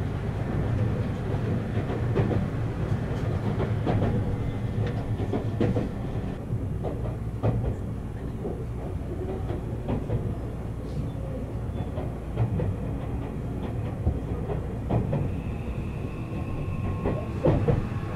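Running noise of a Seibu Laview (001 series) limited express train heard from inside the passenger cabin: a steady low rumble with scattered clicks from the wheels on the track.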